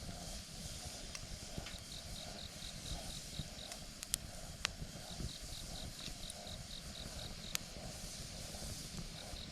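Wood campfire crackling, with a low steady rumble and scattered sharp pops, the loudest about four seconds in. An insect chirps steadily in the background, about four high chirps a second, pausing for a few seconds in the middle.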